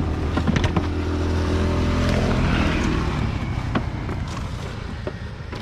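Motor vehicle engine running at a steady pitch among road and wind noise, easing off and getting quieter after about three seconds.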